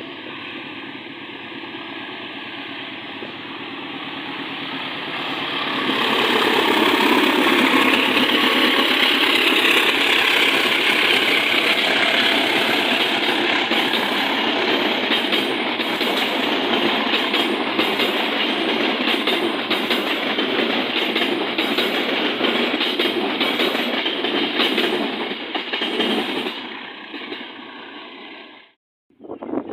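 Train passing close by, its wheels clattering steadily over the rails. It builds up over the first few seconds, runs loud and steady, and cuts off abruptly near the end.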